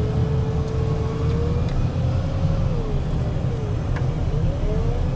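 Volvo rubber-tire wheel loader's diesel engine running while plowing, a steady low drone. A whine over it sinks about three seconds in and climbs again near the end.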